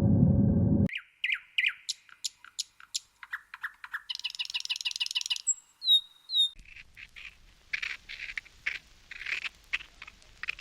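A loud low noise that cuts off suddenly just under a second in, followed by a string of short high chirps and squeaks from small animals, with a rapid trill about four seconds in and a few high gliding whistles after it.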